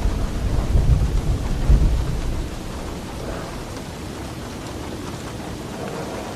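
Heavy rain falling steadily on a roof, with a deep roll of thunder over the first two seconds or so that swells twice before dying away.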